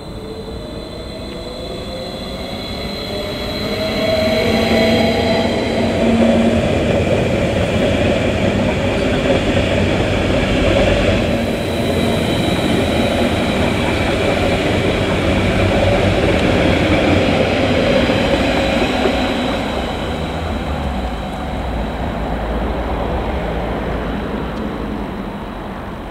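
Train passing slowly on the tracks. A whine rises in pitch as it builds over the first few seconds, the passage stays loud for about fifteen seconds, then it eases off near the end.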